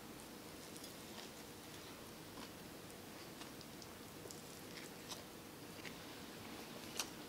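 Faint, soft chewing and small mouth clicks of a person eating a McDonald's breakfast sandwich, with one sharper click near the end.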